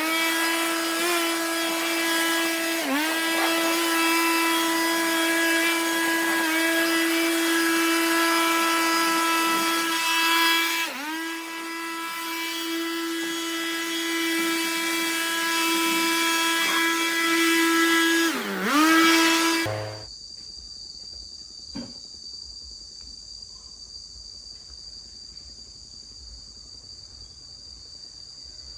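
High-revving power tool motor running steadily, its pitch sagging briefly under load four times, then cutting off sharply about two-thirds of the way through. After that insects chirp in one steady high tone, with a single click.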